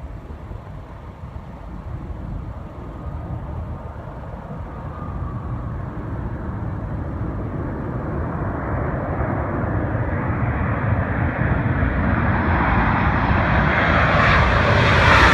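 A British Airways Boeing 747's four jet engines on landing approach, growing steadily louder as the airliner nears, the noise getting brighter and fuller toward the end.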